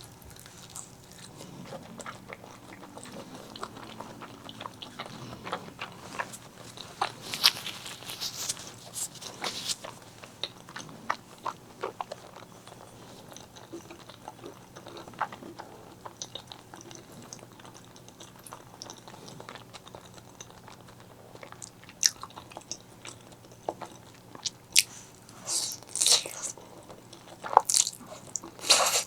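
Close-miked eating of spicy black bean noodles and fried eggs: chewing with many short, sharp mouth clicks and bites, coming thickest about seven to ten seconds in and again through the last several seconds.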